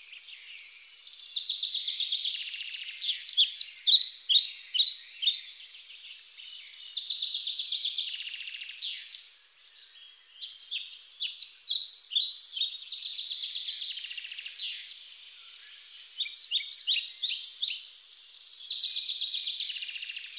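Songbird singing: phrase after phrase of rapid high chirps and trills, each lasting a few seconds, with short pauses between.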